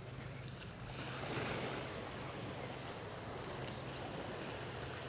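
Small waves washing up onto the sand, with one surge swelling about a second in.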